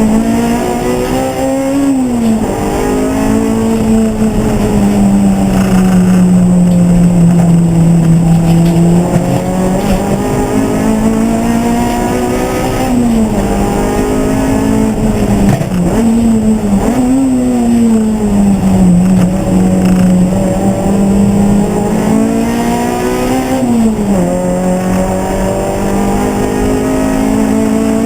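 Racing car engine running hard and close, its note climbing and then dropping sharply at gear changes several times, with slower falls in between as it comes off the throttle.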